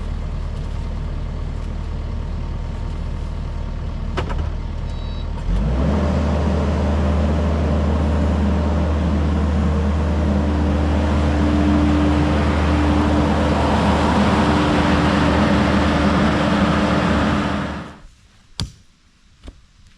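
A heavy machine's engine running steadily. It steps up to a higher, louder speed about five seconds in, then is shut off near the end, followed by a few sharp clicks.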